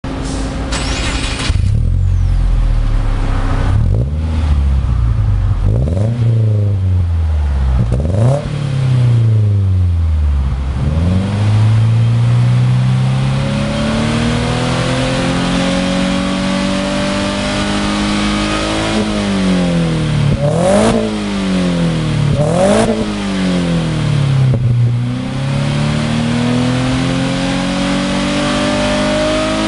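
Exhaust of a Subaru Forester 2.0XS (SJ5) flat-four engine through a Kakimoto Class KR aftermarket muffler: a short idle, then several quick throttle blips that rise and fall sharply, alternating with slower, longer climbs in revs.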